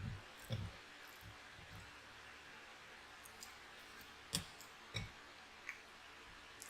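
Eating sounds: a few soft, scattered mouth clicks and low thumps of chewing and handling food, with the loudest pair a little past the middle.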